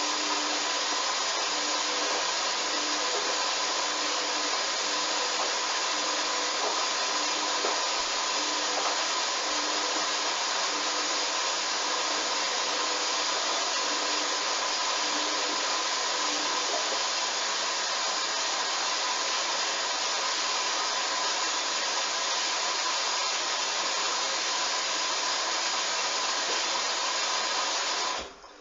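Hoover washing machine mid-programme making a steady rushing noise, with a faint pulsing hum beneath it; the noise cuts off suddenly near the end.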